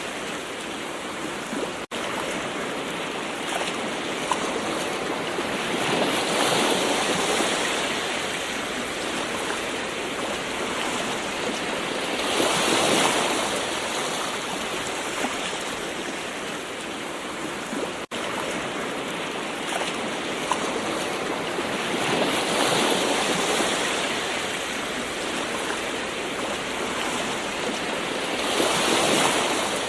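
Gentle ocean waves washing ashore: a steady wash of surf that swells and ebbs every six seconds or so. The sound drops out for an instant twice.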